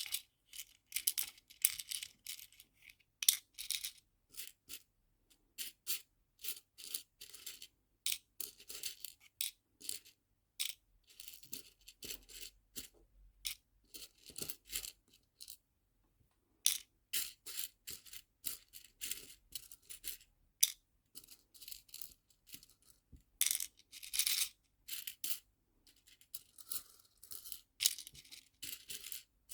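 Small nail-art charms clicking and rattling as they are handled and dropped into small storage boxes. The light clicks come in quick runs, with short pauses about a fifth of the way in and about halfway through.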